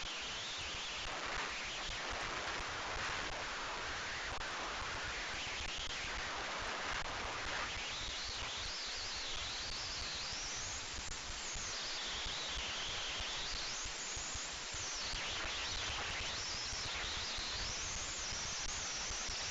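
Steady outdoor noise like wind rustling through leaves. From about eight seconds in, a thin high whine slowly wavers up and down in pitch.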